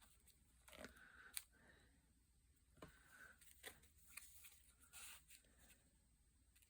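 Near silence, with a few faint separate clicks and short rustles from paper crafting being handled while glue is added.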